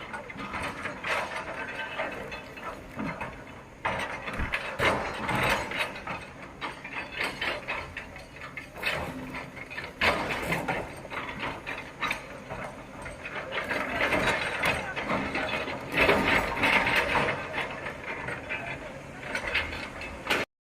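Irregular metallic clattering and rattling from heavy machinery, continuing and rising and falling in loudness.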